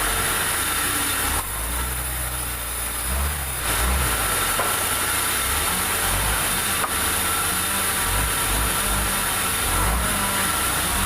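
Sawmill machinery running, with a steady engine drone under a constant hiss; about a second and a half in, the higher noise drops away for about two seconds, then comes back.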